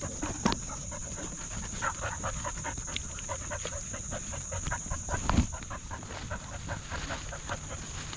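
A dog panting hard, out of breath after exertion, over a steady high-pitched drone of crickets. There is a thump about five seconds in.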